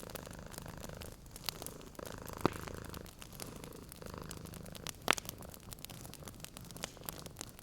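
A cat purring in steady low cycles, with a wood fire crackling over it: many small snaps, and two loud pops about two and a half and five seconds in.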